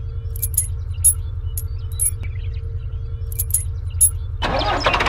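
A steady low rumble with a handful of light, sharp metallic clinks scattered through it. A louder, hissing running noise starts near the end.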